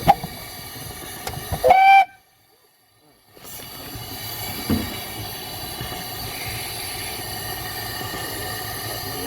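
Short blast on a steam locomotive's whistle about two seconds in, the loudest sound. The audio then drops out for a moment, and a steady hiss with a low rumble follows.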